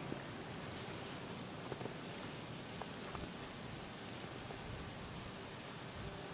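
Steady hiss of heavy wet snow falling and pattering, with scattered faint ticks of flakes and drips striking.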